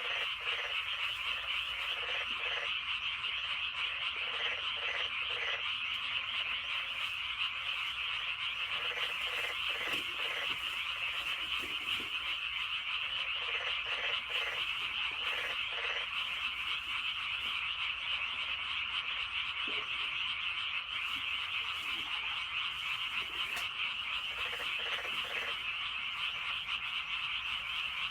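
A chorus of many frogs calling at once: a dense, continuous, high-pitched din, with runs of lower, rapidly repeated croaks coming through now and then.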